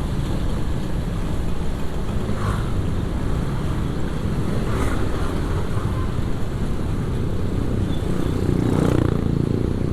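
Riding on a motorcycle: steady engine and wind-on-the-microphone noise while moving along a road, with a few brief louder swells, the largest near the end.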